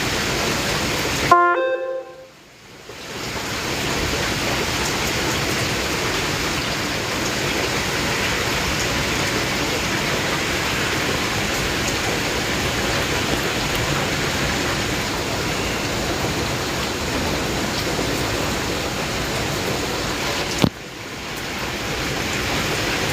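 Steady downpour of heavy rain during a thunderstorm, a continuous even hiss. About a second in there is a brief pitched toot, and the sound cuts out for a moment. Near the end a sharp click comes just before another short dropout.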